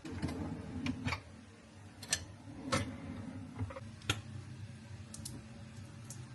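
Irregular light clicks and taps, about seven spread over several seconds, over a low steady hum in a small room.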